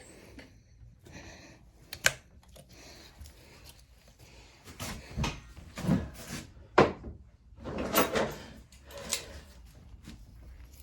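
Hands working on small mower parts and tools: a scattered series of clicks, knocks and short scrapes, with sharp clicks about two and seven seconds in.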